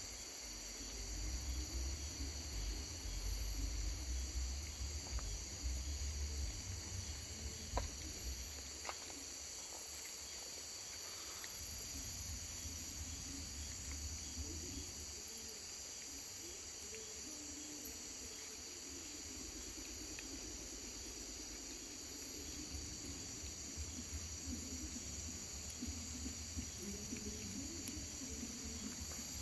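Steady chorus of insects trilling high, like crickets, with a low rumble in the first several seconds and a few faint clicks near the middle.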